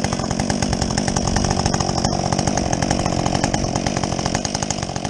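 Husqvarna 562XP two-stroke chainsaw with a modified muffler running at a steady speed.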